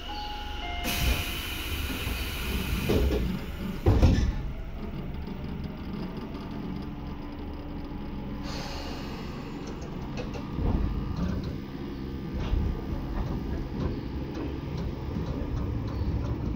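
Interior of a Tobu 10030 series electric train car: low rumble with a loud burst of air hiss about a second in, then a single heavy clunk about four seconds in and a shorter hiss a few seconds later.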